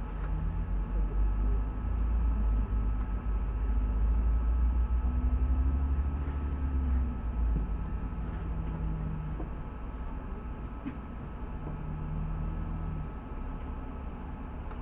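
Inside a LiAZ 6213 articulated city bus on the move: a low engine and road rumble, loudest in the first half and easing after about seven seconds, with a humming drivetrain tone that comes and goes.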